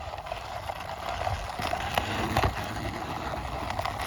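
Handling noise from a plastic toy sports bike being turned over in the hands, with a few clicks and knocks about two seconds in, over a steady background hum.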